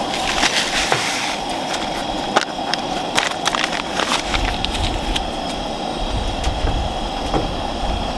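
Chicken sizzling in a cast iron skillet over a campfire, with scattered crackles and pops. A low rumble comes in about halfway through.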